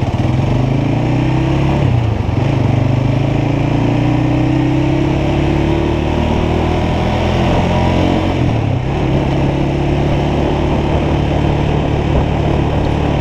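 Motorcycle engine running while riding, revs climbing and then dropping back briefly about two seconds in and again near nine seconds.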